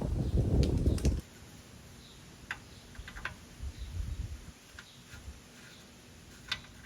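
Tools and parts being handled during repair work: a second of low rumbling handling noise, then scattered light clicks and taps, a second or so apart.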